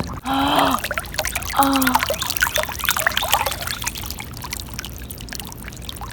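Trapped floodwater gurgling and splashing out of a burst grass bubble, the lifted patch of ground releasing its water; strongest in the first few seconds, then easing off.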